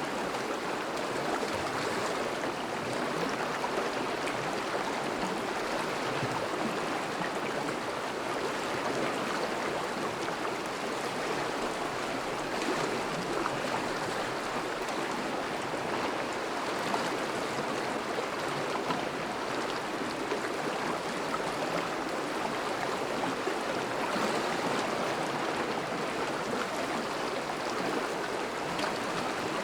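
Thawing river flowing steadily, a continuous even rush of moving water.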